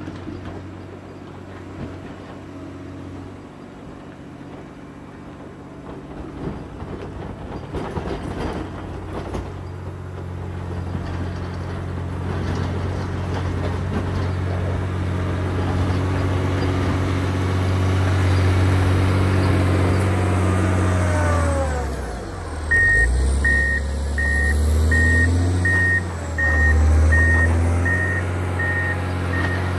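John Deere 670 motor grader's diesel engine working under load, growing louder over the first two-thirds. Its pitch dips and recovers, then a reversing alarm beeps steadily, about one and a half beeps a second, as the grader backs up.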